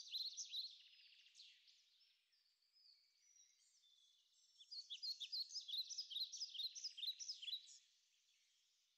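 A songbird singing: a quick run of high chirping notes at the start, a few scattered softer notes, then a second run of rapid chirps from about halfway until near the end.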